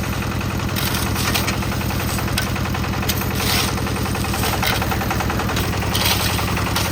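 Concrete mixer's engine running steadily with a fast, even knocking beat. A few brief hissing rushes sound over it now and then.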